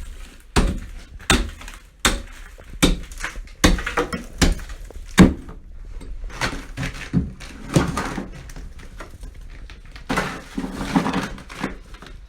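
A hand tool striking and chipping thick ice: about seven hard blows, a little under a second apart. These give way to softer, irregular knocks and scraping of ice.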